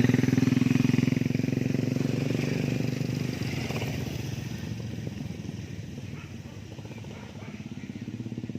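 A small motorcycle engine running with a steady firing beat, loud at first and fading over several seconds, then growing louder again near the end.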